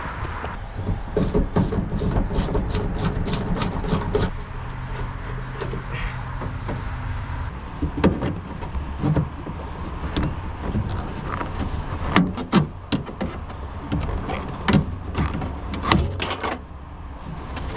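Hand tools at work on bolts in a truck cab, likely freeing seatbelt hardware: a quick run of sharp, evenly spaced clicks, a steady low hum for a few seconds, then scattered knocks and clanks.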